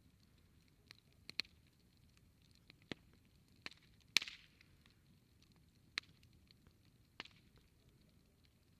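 Wood campfire crackling, with scattered sharp pops about once a second, the loudest a little after four seconds in.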